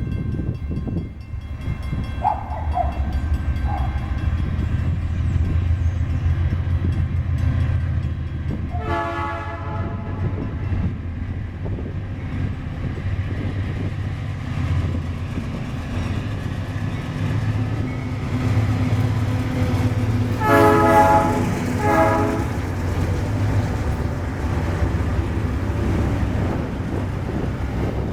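Four GE diesel-electric freight locomotives (two AC44i and two C44EMi) hauling a heavy loaded freight train, their engines rumbling low and steady as they are notched up to accelerate. The air horn sounds one blast about nine seconds in and two more about twenty-one seconds in.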